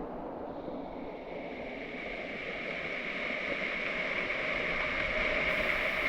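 Waterfall rushing: steady falling-water noise, with a thin, steady high tone joining about a second in.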